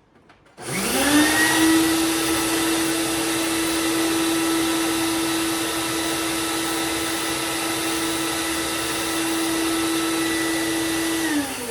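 Shop dust-collection vacuum switched on: it spins up with a rising whine under a second in, runs steadily with a hum and rushing air, then spins down with a falling pitch near the end.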